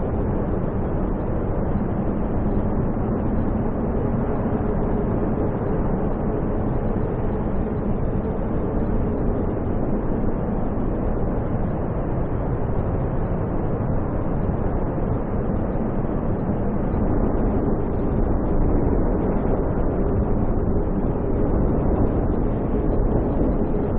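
Steady low roar of snowstorm wind, with a faint hum underneath; it grows a little louder about two-thirds of the way through.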